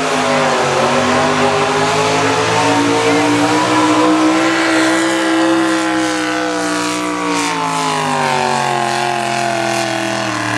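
Naturally aspirated engine of a two-wheel-drive Chevrolet El Camino pulling truck running at full throttle under the load of a pulling sled. Its pitch dips at first, climbs slowly to a peak about halfway through, then sags toward the end as the load builds.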